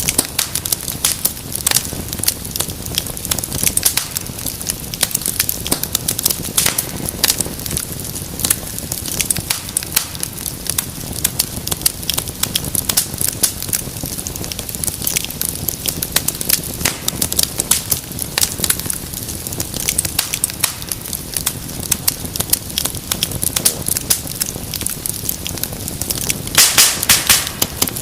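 Wood fire crackling and popping in an irregular stream of sharp snaps over a low steady rush of flames, with a louder burst of pops near the end.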